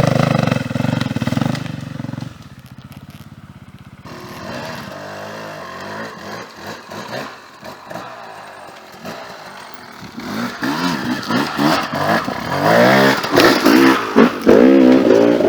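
Dirt bike engine, loud at first and dropping away after about two seconds. It runs low and unevenly for a while, then revs up and down hard again and again from about ten seconds in.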